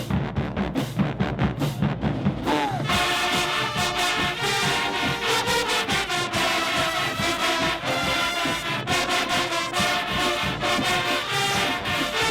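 High school marching band: the drumline plays alone for about the first two and a half seconds, then the full brass section comes in and plays with the drums.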